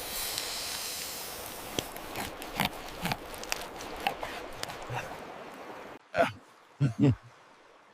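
A steady hiss with scattered clicks fades away over about six seconds. Then, in near quiet, come three short throaty voice sounds, like grunts, close together.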